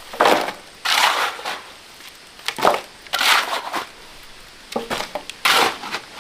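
A shovel scraping and scooping into sand and gravel for a concrete floor. About six gritty, crunching strokes come roughly once a second.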